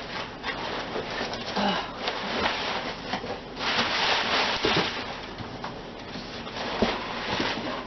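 Rustling and scraping of cardboard as a large shipping box is opened and handled, with scattered knocks and a louder stretch of rustling lasting about a second near the middle.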